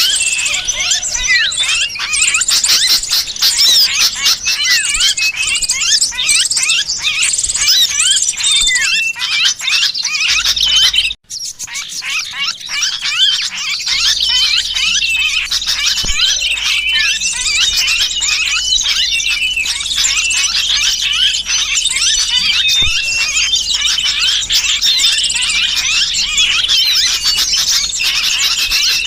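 Dense, continuous chorus of small birds' shrill chirps and squeals mixed with noisy sooty-headed bulbul chattering. It is a bird-trapping lure call built from the alarm and distress cries of a caught bird. The sound cuts out briefly about 11 seconds in, then the chorus resumes.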